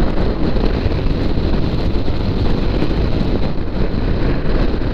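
Steady rush of riding wind on the microphone of a moving Suzuki V-Strom 650 motorcycle, with the bike's running noise mixed in underneath.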